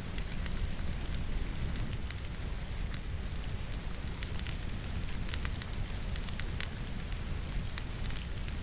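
Wood fire burning in a fireplace, crackling with many irregular small pops, over the steady rush of falling rain.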